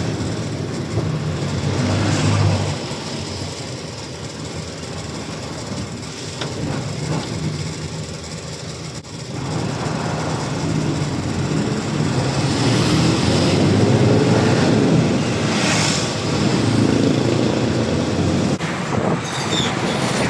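A truck's engine running with road noise while driving, quieter for a few seconds and then louder again from about halfway through.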